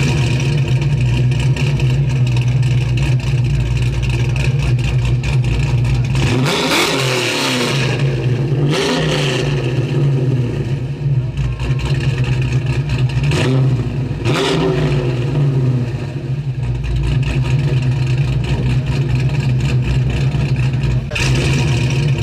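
1969 Dodge Super Bee's 440 Six Pack V8 running at a steady, loud idle through a Flowmaster exhaust, revved in short blips about four times in the middle, the pitch rising and falling back each time.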